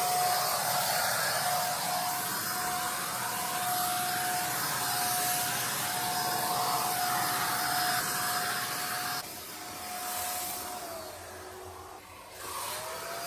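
A small motor-driven blower-type tool running with a steady rush of air and a single whine. It winds down about eleven seconds in, then spins back up near the end.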